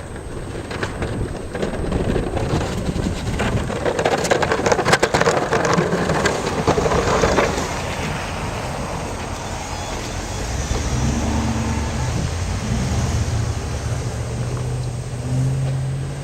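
A motor engine running. A loud rushing, crackling swell comes in the first half, then a steady low engine hum that rises a little near the end.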